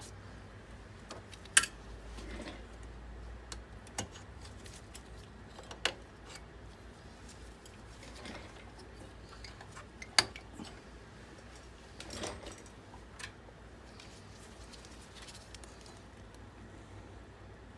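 Handling noises of computer repair work: four sharp clicks and clinks of small hard parts or tools set down or knocked, spaced a few seconds apart, with softer rustling in between over a low steady hum.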